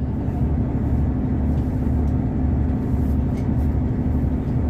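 Wooden tugboat's diesel engine running steadily under load: a deep, even drone with a constant hum on top.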